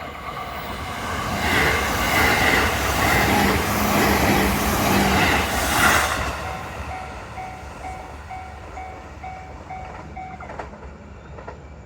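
Joban Line train passing over a level crossing, loud for a few seconds, then fading away. The crossing's warning bell rings in a steady rapid pattern, heard again once the train has gone, and stops near the end.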